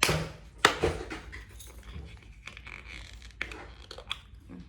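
Crinkling and rustling of slime-kit materials being handled and emptied into the slime, with scattered small clicks and scrapes; a sharper crackle comes at the start and again under a second in.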